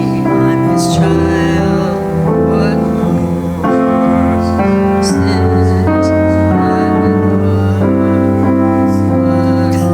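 Piano playing a slow worship song in full, sustained chords that change about once a second.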